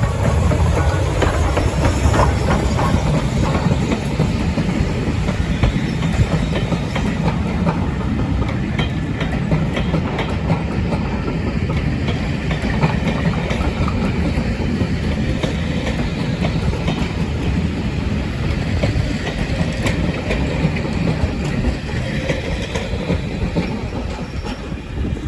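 A train running on rails: a steady rumble of wheels and carriages, with many short clicks from the wheels passing over the track.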